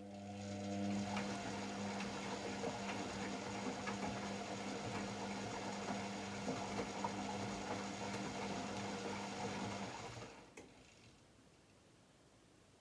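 AEG Electrolux Lavamat L74810 washing machine running for about ten seconds: a steady hum with light rattles and ticks that starts suddenly and dies away near the end, typical of the wash cycle's on-off working.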